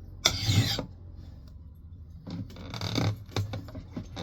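A hand file rasping across the steel bit of a Mann Edge Tool Company knot clipper axe head: one strong stroke right at the start, then after a short pause a few softer scraping strokes and light taps.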